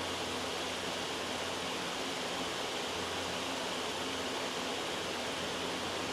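Steady, even white-noise hiss from a background noise track, unchanging throughout, with a faint low hum beneath it.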